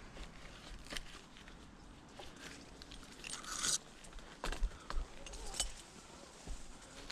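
Scattered rustling and crunching of dry palm fronds with irregular clicks and knocks, a louder scratchy rustle about halfway through, and a few dull thumps just after it.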